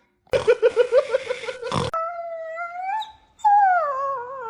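A dog vocalizing: a rapid pulsing grumble, then two drawn-out howling whines, the second sliding down in pitch.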